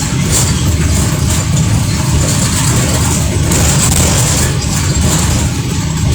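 Cabin noise of a moving Morgantown PRT car, a rubber-tyred electric people mover: a steady low rumble with a high hiss over it.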